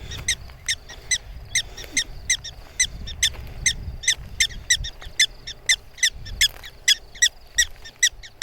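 Black-tailed prairie dog alarm calls: a rapid, steady series of short, high, sharp chirps, about two to three a second. This is the colony's warning call at people standing close by.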